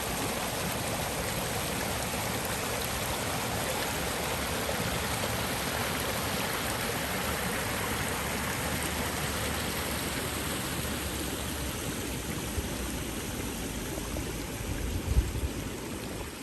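Steady rushing noise of flowing water, even and unbroken, easing a little in the second half, with a few low bumps and a brief thump near the end.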